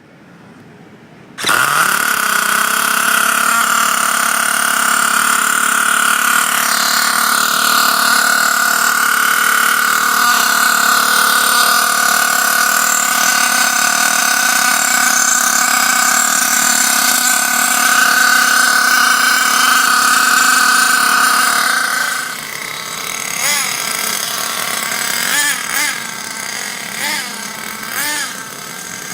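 Thunder Tiger RTA4 nitro truck's small glow engine running during its break-in: it catches with a sudden jump in level about a second and a half in and holds a high, steady pitch for about twenty seconds, then drops to a lower idle broken by short throttle blips that rise and fall.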